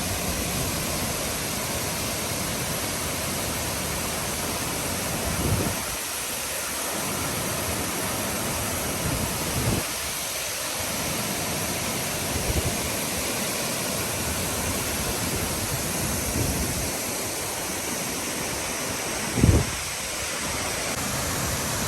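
Waterfall: the steady rush of falling water. A few brief low bumps break through it, the loudest near the end.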